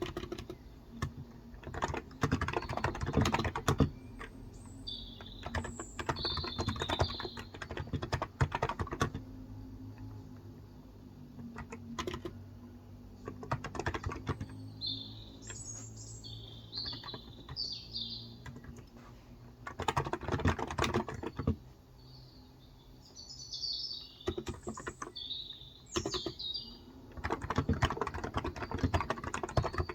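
Typing on a Cox Endeavour electro-capacitive (Topre-style) 35 g tenkeyless keyboard, in bursts of keystrokes with short pauses between them. Birds chirp in short high phrases several times, mostly in the lulls of the typing.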